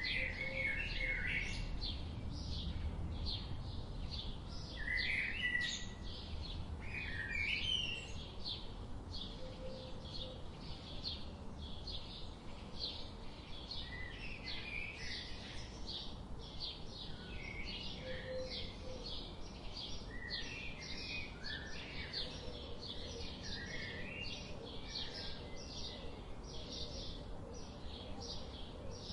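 Several birds chirping, with quick high notes repeating about twice a second and other chirping phrases scattered through, over a steady low background rumble.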